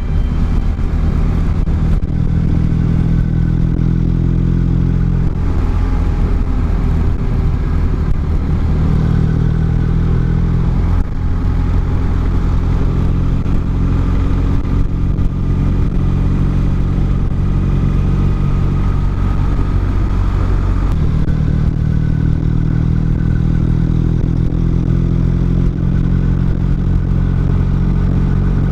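Motorcycle engine running under way, steady and loud, its pitch shifting a few times as the revs change.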